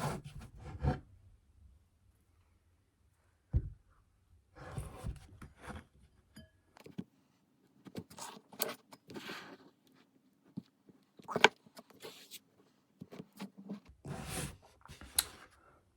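Scattered clinks, scrapes and small knocks of a spoon, bowl and ice cream tub as ice cream is scooped into a bowl.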